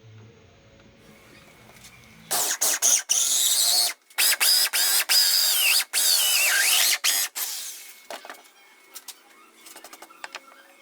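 Electric drill run in several short bursts from about two seconds in until near eight seconds, its motor pitch rising and falling as it speeds up and slows, followed by a few light clicks of handling.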